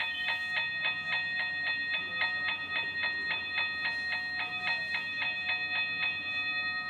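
Toy railroad crossing gate's mechanical bell ringing rapidly, about four strikes a second. It stops about six seconds in, leaving the bell's ring to fade.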